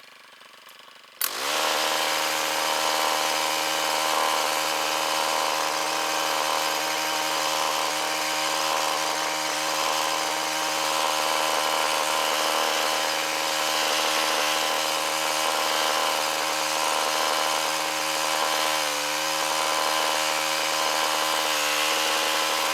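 Gas chainsaw running at steady high throttle, starting abruptly about a second in and holding one pitch, with a brief dip in pitch near the end.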